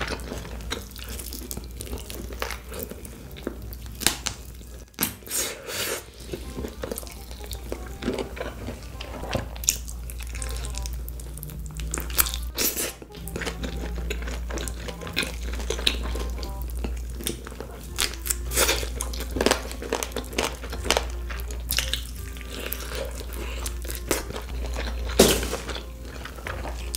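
Close-miked biting and chewing of glazed fried chicken, irregular crisp crunches and wet chewing sounds. Soft background music underneath.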